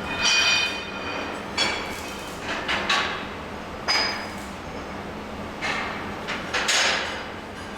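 Steel being struck or knocked together: about six irregular metallic clanks, each ringing briefly with a high tone.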